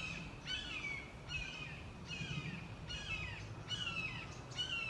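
Hawks calling: a regular series of short, downward-sliding calls, a little more than one a second.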